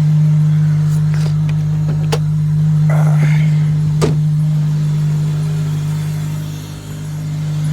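Honda Accord engine, fitted with a cold air intake, idling steadily after a cold start. There are a few sharp clicks over the engine, and the sound dips briefly near the end.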